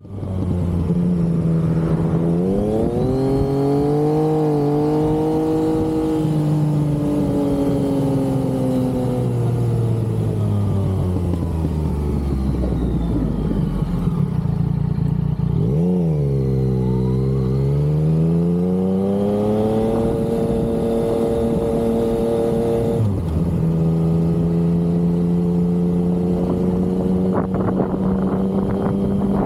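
Yamaha XSR900's three-cylinder engine under way on the road: it revs up near the start, then its pitch falls slowly for a long stretch, dips sharply and picks up again in the middle, and settles to a steady cruise in the last few seconds.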